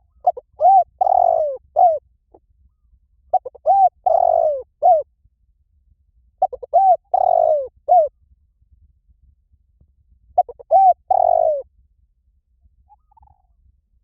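Spotted dove cooing: four phrases about three seconds apart. Each is a quick run of short coos with one longer, drawn-out coo in it.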